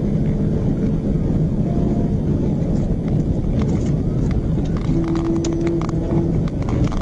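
Steady low road and engine noise of a state police patrol car driving at high speed in a pursuit, with a scattering of light clicks in the second half.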